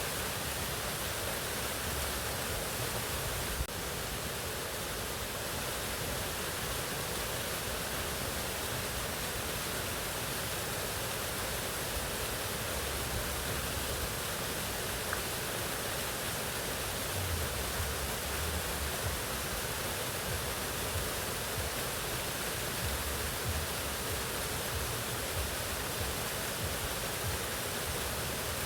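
Mountain waterfall: water falling and splashing in a steady, unbroken rush, with a faint low rumble beneath.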